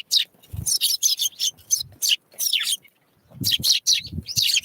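Small wild songbirds calling in quick, short, high chirps, several sliding down in pitch, with a few dull knocks among them.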